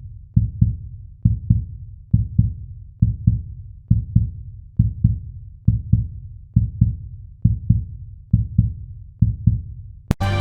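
Heartbeat sound effect: low double thumps, lub-dub, a little under once a second. Near the end a sharp click, and music starts.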